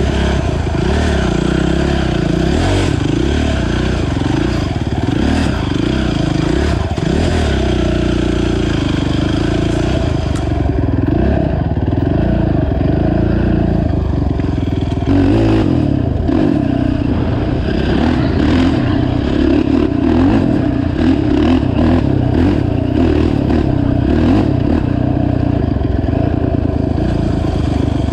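Honda TRX450 quad's engine running while riding, its pitch rising and falling with the throttle.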